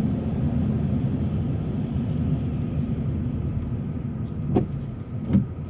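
Car driving on a wet road, heard from inside the cabin: a steady low rumble of tyre and road noise. It eases slightly near the end, where two short thumps come about a second apart.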